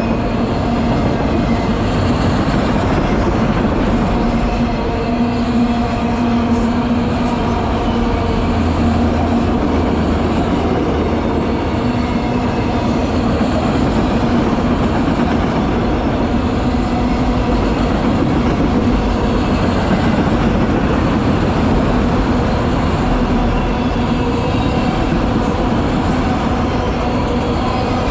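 Freight train rolling past at steady speed: a continuous loud rumble of wheels on rail with a steady underlying hum.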